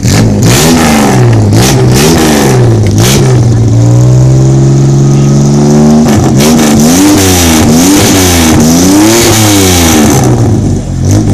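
1950 Chevrolet Fleetline's straight-six with a split exhaust manifold, three cylinders to each pipe, being revved. Repeated quick blips of the throttle are followed by a longer rev held for about two seconds in the middle, then another run of quick blips, before it settles back toward idle near the end.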